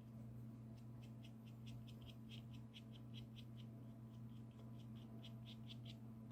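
Faint, quick scratchy strokes of a stiff bristle brush flicked against watercolour paper while painting fir needles, about three to four short strokes a second, over a low steady hum.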